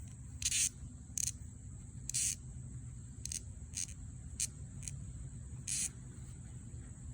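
Cicadas shrilling in a steady high whine, broken by about eight short hissing buzzes at irregular intervals.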